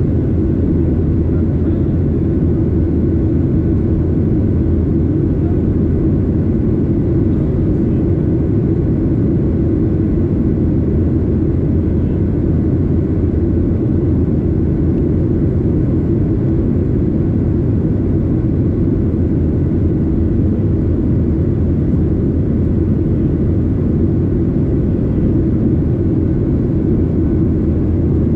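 Boeing 737-800 airliner's CFM56 engines and airflow making a steady, even rumble, with faint steady whining tones above it.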